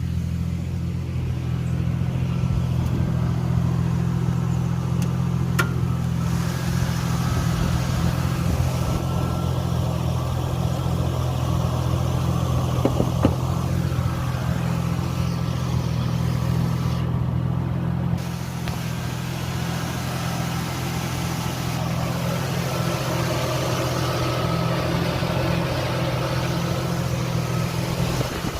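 1JZ-GTE VVTi turbocharged straight-six idling steadily, with a few faint ticks.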